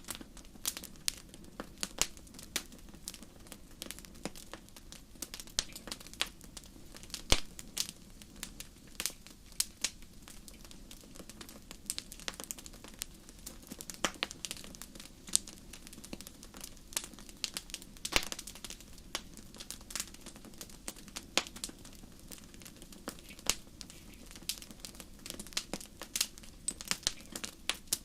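Campfire crackling: a steady low rush of burning wood with irregular sharp snaps and pops, a few much louder than the rest.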